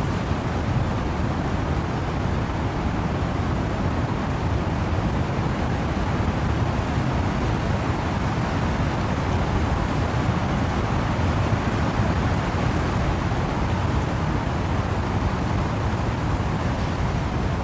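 Steady rain with wind rushing through trees, an even unbroken noise heaviest in the low rumble.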